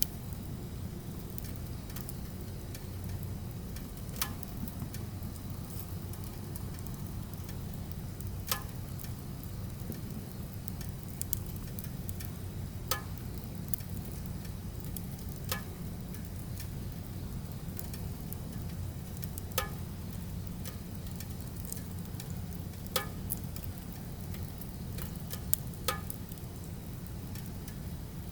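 Firewood burning with a steady low rumble, and sharp crackles and pops of the wood at irregular intervals of a few seconds.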